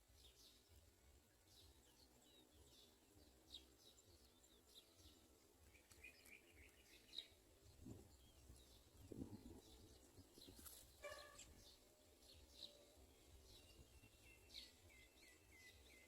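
Faint, scattered short bird chirps, with a few quick runs of repeated notes about six seconds in, around eleven seconds and near the end.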